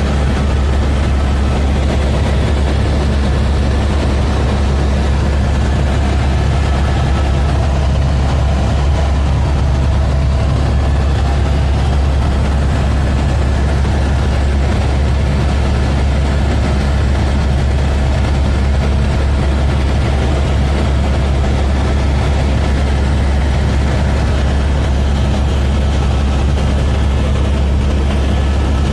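Helicopter engine and rotor noise: a loud, steady low drone with faint whining tones above it, unchanging throughout.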